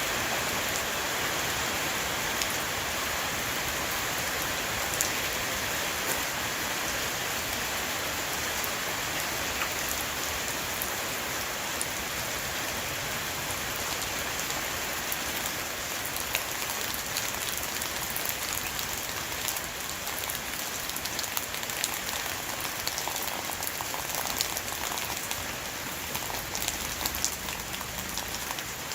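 Rain shower falling on a roof: a steady dense hiss with many separate drops ticking through it.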